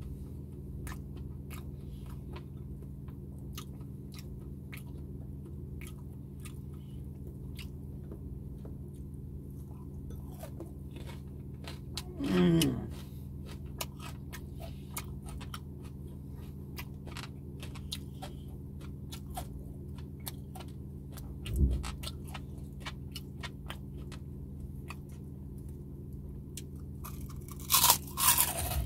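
Close-up chewing and crunching of crispy deep-fried pork knuckle (crispy pata) skin, with many small crackly crunches, over a steady low hum. A louder falling sound comes about twelve seconds in, a low thump about twenty-two seconds in, and a few louder mouth sounds near the end as fingers are licked.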